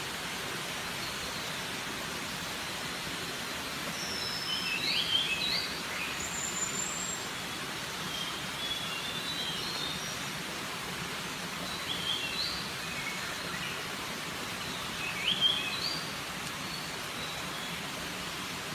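Birds chirping and whistling in short calls over a steady outdoor hiss. The loudest calls come about five and fifteen seconds in.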